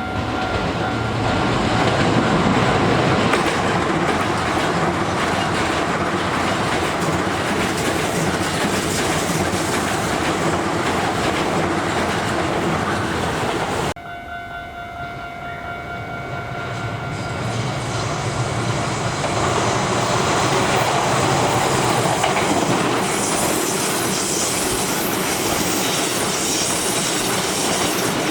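Electric commuter trains passing at close range, wheels clacking over the rail joints: first a Toei 5500-series set, then, after a sudden break about halfway, a Keisei 3700-series set that grows louder as it comes through.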